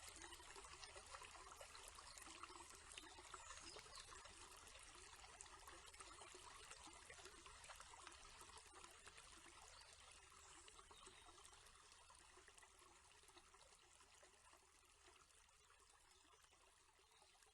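Faint trickling of running water, a fine steady crackle that slowly fades away.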